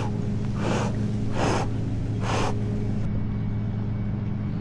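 A man gasping, four sharp breaths about one every 0.8 s, after cold water on him, over a truck engine running steadily.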